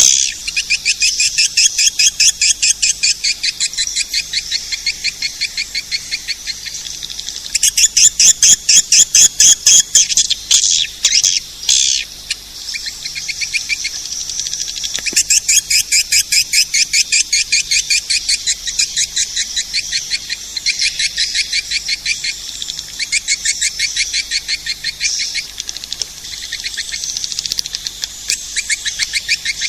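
Swiftlet lure call: trains of short, high, rapid chirps that run on without a break and swell loudest a little past a quarter of the way in.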